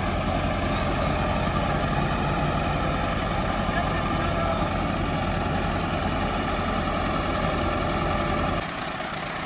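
Heavy diesel engine idling steadily, a low even rumble. Near the end the low rumble drops away abruptly.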